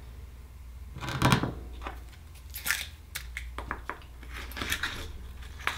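An Akoya oyster being opened by hand: scattered crunches, clicks and scrapes of shell and blade, the loudest cluster about a second in.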